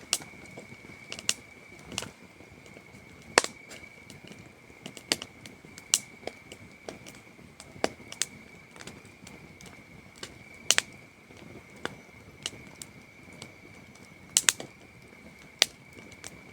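Campfire crackling, with sharp, irregular pops of burning wood about one or two a second, over a steady high-pitched cricket trill.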